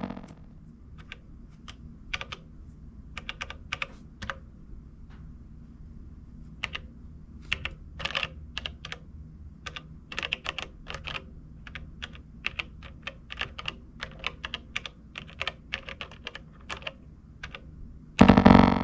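Buttons on an Elektron Digitakt being pressed: irregular clicking taps, some in quick runs, over a faint low hum. A loud distorted synth bass line starts up again just before the end.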